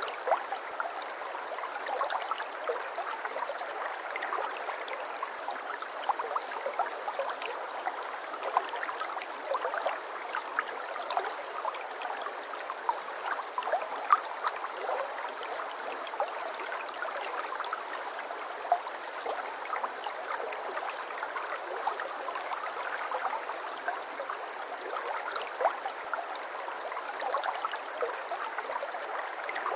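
Babbling brook: shallow water running and gurgling steadily over stones, with many small splashes and trickles.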